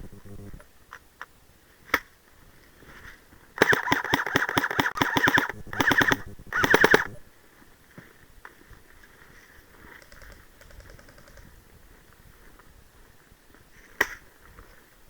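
Airsoft replica firing three rapid full-auto bursts in quick succession, the first and longest lasting nearly two seconds. Single sharp shots come a couple of seconds before the bursts and again near the end.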